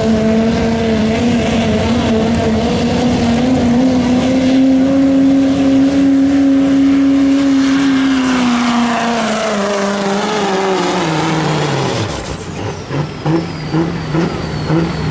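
Diesel pickup truck's turbocharged engine running at full throttle under heavy load while pulling a weight sled. The engine note holds steady, then drops in pitch over a few seconds as the truck is pulled down, and it cuts off about twelve seconds in. A high turbo whistle then winds down.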